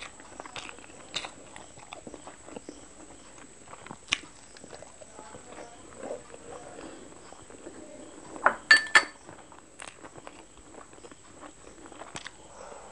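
Close-miked chewing and wet mouth sounds of eating a steamed chicken momo dipped in red chutney, a steady run of small smacks and clicks. About eight and a half seconds in, a couple of sharp, brief ringing clicks stand out as the loudest sounds.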